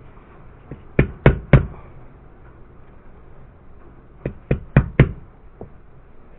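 Mallet tapping a pin punch to drive a stubborn pin into a Glock 17 frame during a trigger install. Three sharp knocks about a second in, then four more about four seconds in, each about a quarter second apart.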